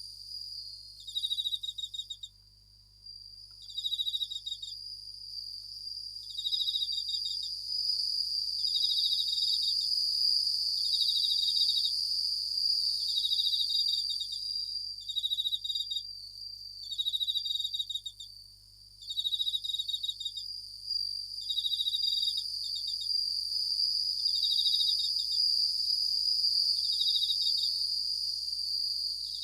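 Japanese bell crickets (suzumushi) singing: short, high, pulsed chirps repeated about every two seconds over a steady high ringing trill.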